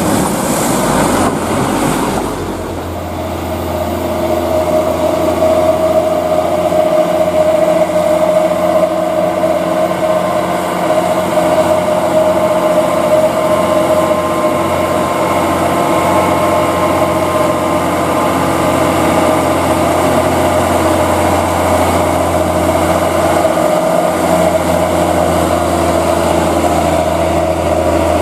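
Heavy truck's diesel engine running steadily at a near-constant speed, after a short rush of noise in the first two seconds.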